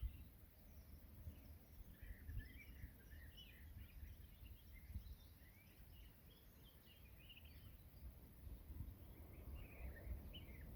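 Songbirds singing faintly in a forest, many short high chirps and quick trills from more than one bird, over a low rumble.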